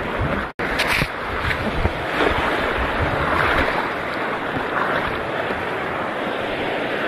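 Sea water washing at the shore and wind buffeting the microphone, a steady rushing noise. The sound drops out for an instant about half a second in.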